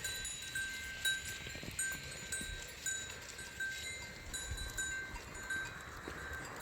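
Small bells on grazing sheep clinking irregularly, several bells at different pitches.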